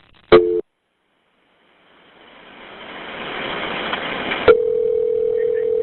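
Telephone line sounds on a recorded dispatch line: a short burst of two-note dial tone, a hiss of line noise that swells up, then a click and a steady telephone tone as an outgoing call is placed.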